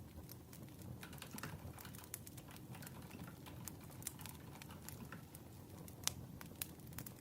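Wood fire crackling: irregular sharp snaps and pops over a low steady rumble of burning logs, with two louder pops about six seconds in.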